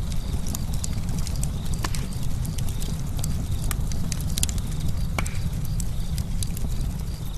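Campfire burning: a steady low rumble with many sharp, irregular crackles and pops of burning wood, a few louder pops among them.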